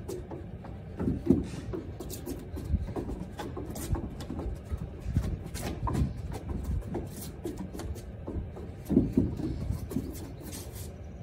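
Trainers scuffing and thudding on wooden decking during quick footwork shuffles, an irregular run of rubs and knocks with a few heavier footfalls.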